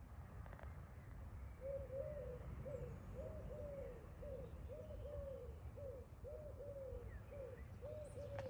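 A bird calling: a steady run of short, hooting notes, about two a second, beginning a second and a half in. A faint low rumble of distant traffic lies beneath.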